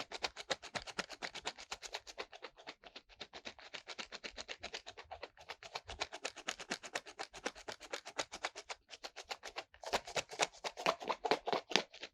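Ear-cleaning tool scraping and rubbing inside a binaural dummy head's microphone ear in fast, even strokes, about seven a second. The strokes break off briefly and come back louder near the end.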